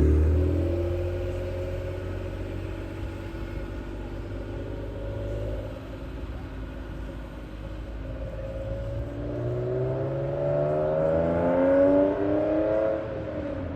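Exhaust of a first-generation Honda NSX V6 engine, falling from a rev to a lower steady note. About nine seconds in it rises in pitch for several seconds, then drops away sharply near the end.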